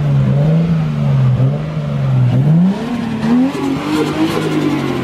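Car engine being revved, its pitch dropping and climbing again several times.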